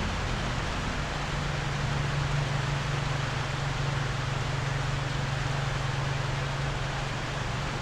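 Heavy rain falling steadily on a bamboo roof, an even hiss, with a low steady hum underneath that steps up slightly in pitch about a second in.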